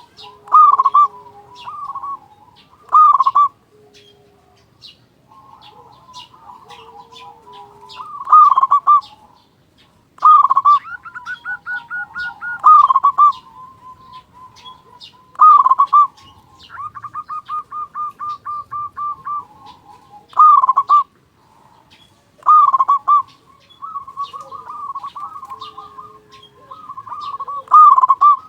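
Male zebra dove (perkutut) singing with a big voice: loud, repeated coo phrases, twice broken by rapid trilled runs of notes lasting about two seconds. A quieter, lower cooing and faint high chirps sound in between.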